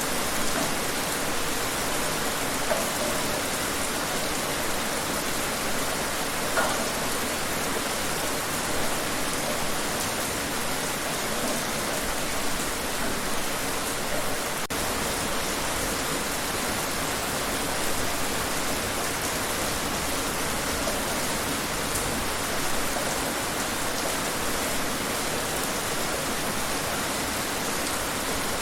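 Steady rain falling: an even hiss with a few louder drops now and then.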